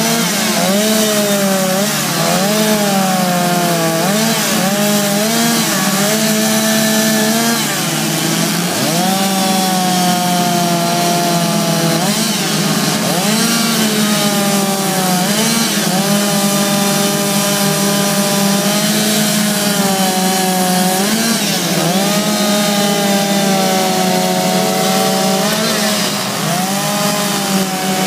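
Two-stroke chainsaw carving wood, running loud and continuous. Its engine pitch keeps dipping as the chain bites into the wood and rising again as it comes free.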